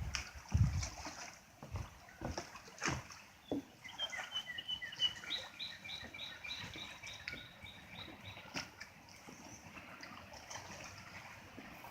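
A songbird singing a string of quick repeated high notes, about five a second, starting about four seconds in and lasting a few seconds, over faint outdoor background with a few clicks and a brief low rumble at the start.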